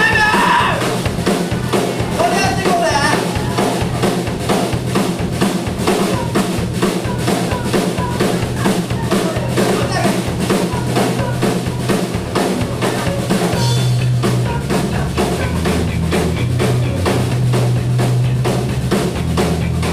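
Rock band playing live: a drum kit keeps a fast, even beat over a steady bass line.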